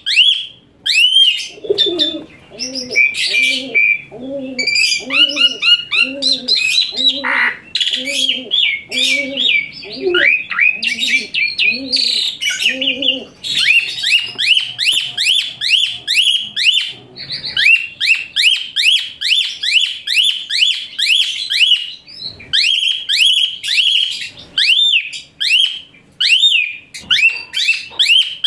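Asian pied starling singing loud, shrill whistles that rise and fall in rapid runs of notes. In the first half a low repeated note sounds beneath them, about once a second.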